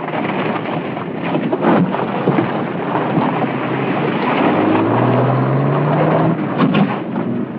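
A car being driven hard in a handling test, with engine and road noise; the engine note rises about five seconds in.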